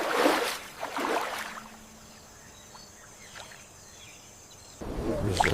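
Water swishing in two swells in the first second and a half, then quiet, then louder sloshing with sharp clicks near the end.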